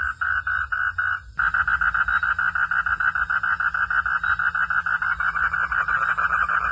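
Frog calling in a continuous fast train of pulsed notes. Just over a second in the call cuts out briefly and resumes with the pulses coming faster.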